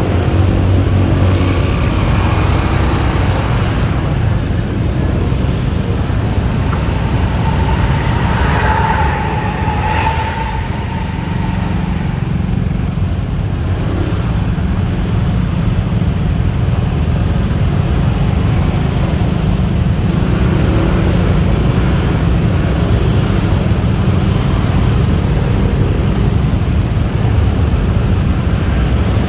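Riding noise from a Yamaha Lexi scooter on the open road: steady wind rumble on the microphone over road and engine noise, with traffic around. A short wavering tone comes about a third of the way in.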